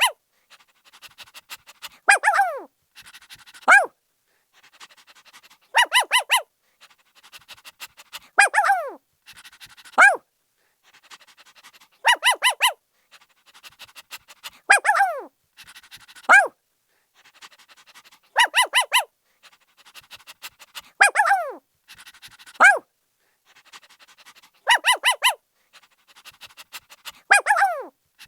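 Puppy barking in short high yips, each cluster followed by a call that slides down in pitch, with quieter rapid panting-like sounds in between. The pattern repeats about every six seconds.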